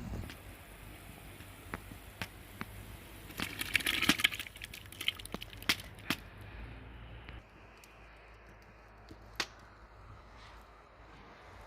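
Wood fire crackling and popping, with sharp snaps scattered throughout and a dense burst of crackles about four seconds in.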